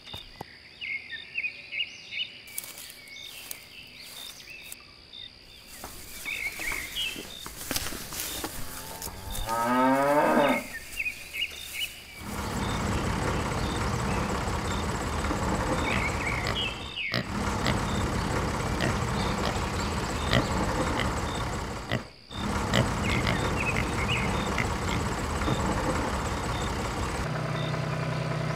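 A cow mooing once, a long call rising in pitch about nine to ten seconds in, after some faint clicking. From about twelve seconds a tractor engine runs steadily.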